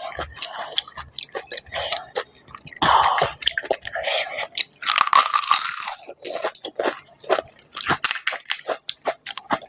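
Close-miked crunching and chewing of crisp panipuri (golgappa) shells: many sharp crackles, with two longer crunching stretches about three and five seconds in.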